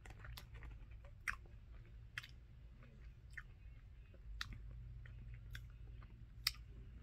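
A person chewing a mouthful of chewy Now and Later jelly beans with the mouth closed: soft wet mouth clicks and smacks, about one a second, over a faint steady low hum.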